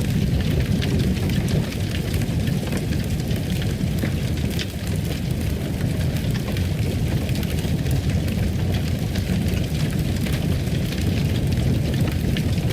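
Fireplace fire burning: a steady low roar with many small, scattered crackles and pops.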